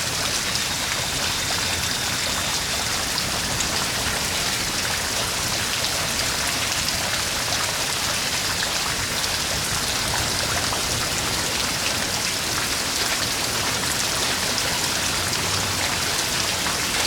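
Severe-storm downpour pelting down steadily, a dense, even patter of many small impacts.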